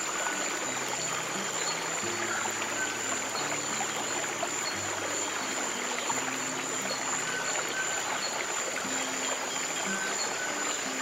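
Steadily flowing stream water with soft, slow piano chords sustained low underneath, changing about once a second.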